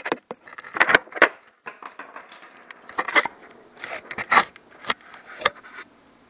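Irregular clicks, knocks and scrapes of a camera being handled and set in place on a toolbox, close to the microphone; they stop about six seconds in.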